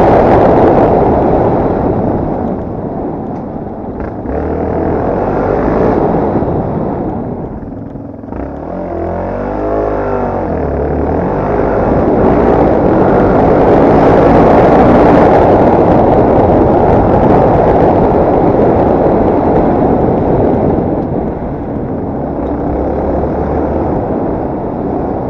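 Yamaha TT250R's single-cylinder four-stroke engine running under load on an off-road ride, its revs rising and falling, with a dense rushing noise throughout. About ten seconds in, the revs drop and climb back up again.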